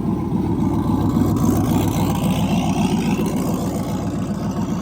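Turbocharged mega mud truck's engine running steadily with a deep, rapidly pulsing exhaust note.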